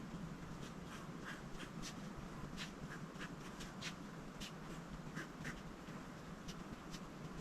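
Coloring strokes on paper: short scratchy strokes at an irregular pace, two or three a second, over a steady low hiss.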